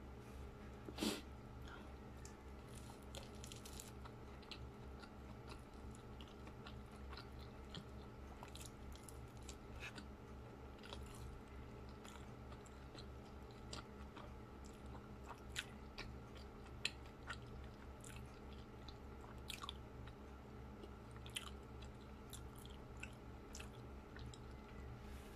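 Close-miked eating of baked sushi wrapped in nori: a louder snap of a bite about a second in, then soft, irregular chewing clicks and smacks over a low steady hum.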